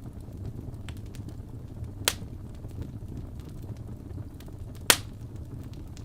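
Fireplace crackling: a steady low rumble of burning wood with scattered sharp pops, the two loudest about two seconds and five seconds in.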